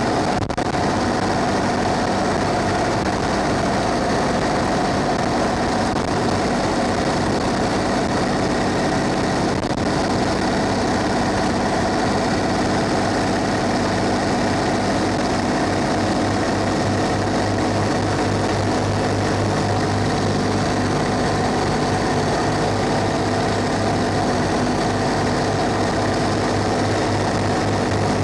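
Thomas Saf-T-Liner C2 school bus on the move, its Cummins ISB 6.7-litre diesel running steadily under a constant hiss of rain and wet road. A low engine hum starts to pulse evenly about halfway through.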